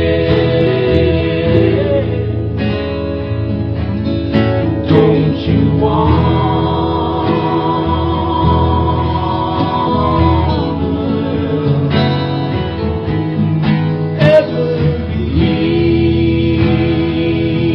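Live acoustic folk band playing an instrumental passage on guitars, with a sustained note held for about four seconds starting about six seconds in.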